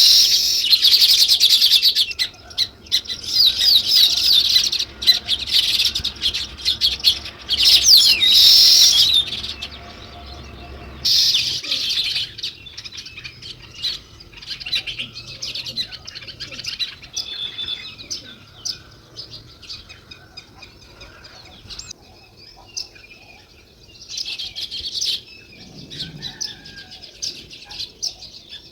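House sparrows chirping: quick, high chirps, which come in several dense, loud bouts and in quieter scattered calls between them.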